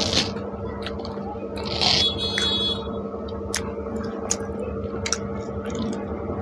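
Close-up eating sounds: chewing pav bread rolls dipped in pav bhaji, with scattered sharp mouth clicks, over a steady low hum.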